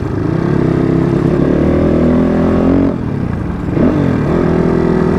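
Dirt bike engine running and revving: the pitch climbs over the first few seconds, falls away briefly about three seconds in, then revs up again and holds steady.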